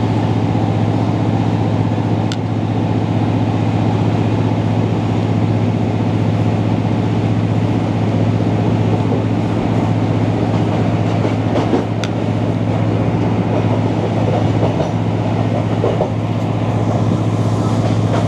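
Passenger train running at speed, heard from inside the carriage: a steady low drone of the diesel engine with the rumble of the wheels on the track, and a couple of brief clicks.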